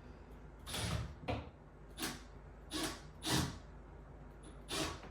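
A series of six short knocks and clunks, irregularly spaced, from hardware being worked against a bathroom wall.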